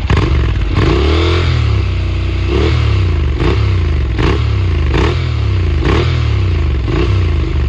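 Honda NC700X's parallel-twin engine through a Delkevic slip-on exhaust with its silencer insert fitted, revved to about half throttle and then blipped again and again, a quick rev a little more often than once a second.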